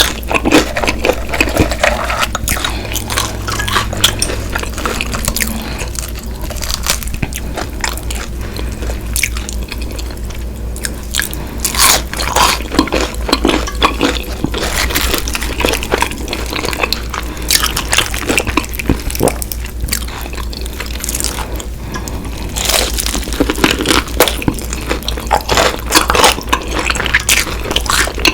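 Close-miked eating: repeated crunchy bites into crispy Popeyes fried chicken coating and chewing, with some wet, saucy mouth sounds between the crunches.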